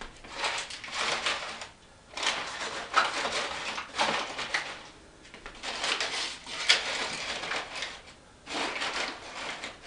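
Firewood logs being loaded into a fireplace firebox: wood scraping and knocking against wood and the firebox, in about four bursts with a couple of sharper knocks.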